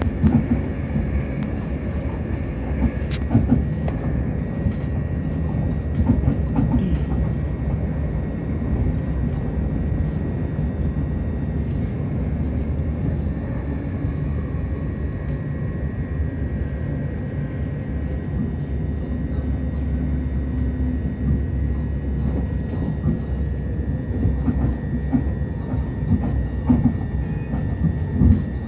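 Passenger train running at speed, heard from inside the carriage: a steady low rumble of wheels on rail with scattered sharp clicks and a faint steady high whine.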